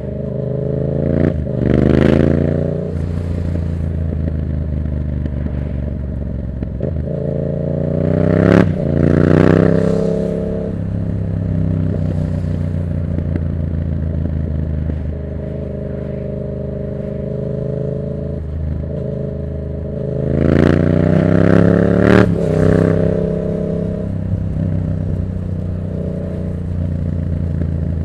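Yamaha MT-07's parallel-twin engine running through a Black Widow exhaust with its dB killer removed, ridden on the road. It accelerates three times, the note climbing each time, with steadier cruising in between.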